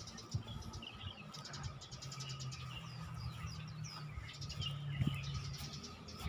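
Small birds chirping and twittering in quick short calls, over a low steady hum that comes in about a second and a half in.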